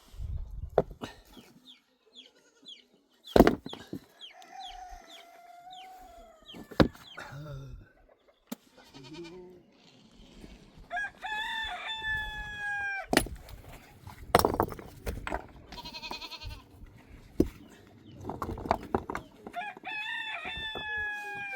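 A rooster crowing twice, each crow a long call that falls slightly in pitch, one in the middle and one near the end. Several sharp knocks come in between.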